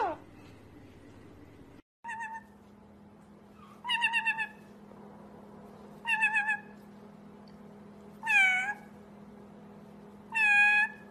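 A parrot mimicking a cat's meow: five wavering meow-like calls, about one every two seconds, over a faint steady hum.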